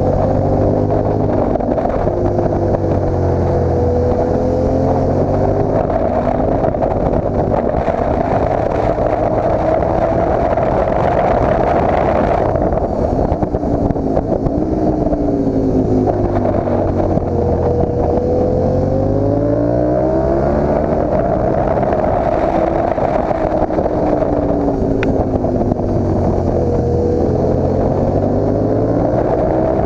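Motorcycle engine at track speed, its revs rising and falling as it accelerates through the gears and eases off for corners, with wind rushing over the handlebar-mounted microphone. The revs drop about twelve seconds in and climb again a few seconds later.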